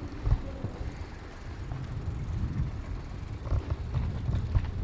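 Bicycle ride in motion: an uneven low rumble from the wheels on the road and wind on the microphone, with a few sharp rattles and clicks near the end.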